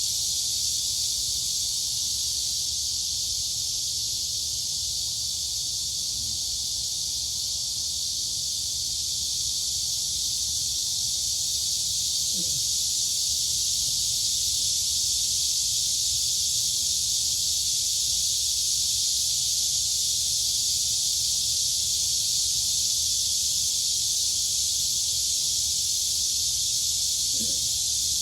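Dense chorus of crickets and cicadas shrilling: a steady, high-pitched, unbroken buzz that holds at the same level throughout.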